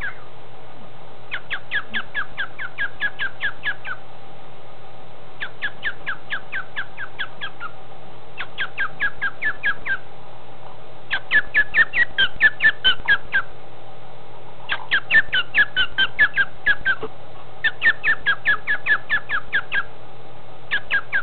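Male cockatiel calling in quick bouts of short, sharp repeated chirps, about eight a second, each bout lasting two to three seconds with brief pauses between; the later bouts are louder.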